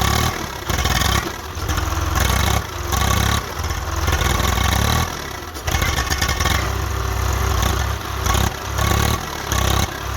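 Swaraj 744 tractor's diesel engine revving in repeated surges about once a second, straining to pull a loaded sugarcane trailer out of the cross furrows where it is stuck.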